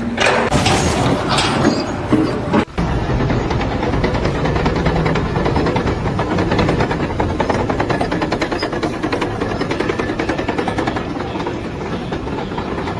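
Dense, steady mechanical rattling, broken by an abrupt change to a new run of it a little under three seconds in.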